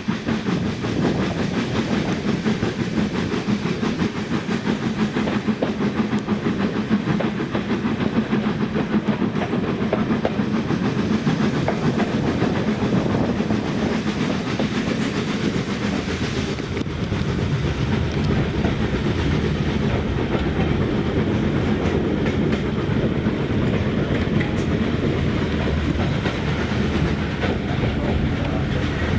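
Heritage railway passenger carriage running along the line: a steady rumble of wheels on the rails made of many rapid clicks, heard at an open carriage window.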